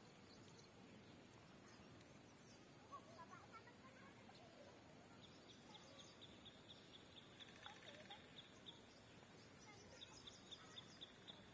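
Faint lakeside ambience with a bird repeating short, high chirps, about five a second, in a run starting about five seconds in and again near the end.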